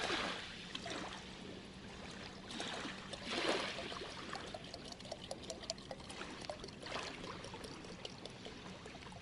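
Lake water running into a large water bottle as it is topped up, swelling louder near the start and again about three seconds in.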